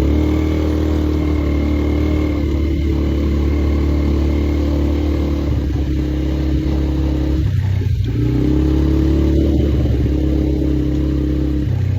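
Polaris quad bike's engine running steadily under way, its note shifting briefly about two-thirds of the way through.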